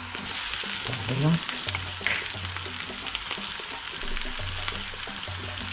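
Longhorn beetle larvae (zendettes) sizzling and crackling as they fry in hot oil in a frying pan. A wooden spoon stirs them at first, and a low hum comes and goes underneath.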